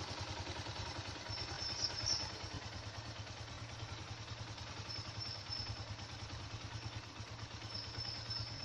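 150cc motorcycle engine idling steadily at a low, even idle, its carburettor idle adjustment screw just turned back to settle the air-fuel mixture and bring the engine sound down.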